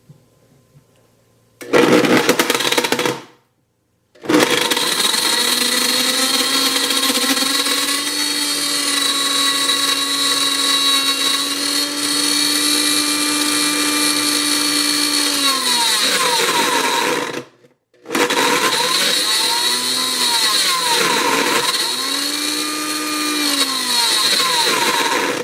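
Countertop blender motor running with a smartphone jammed in its jar, switched on in three runs: a short pulse, a long run that winds down, then another run whose whine sags and picks up again twice. The motor is labouring, with the phone barely moving around the blades.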